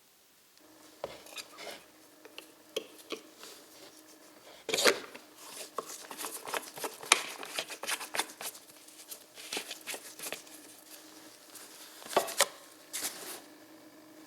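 Irregular clicks, knocks and clatter of hard parts being handled, loudest about five seconds in and again near the end, over a faint steady hum.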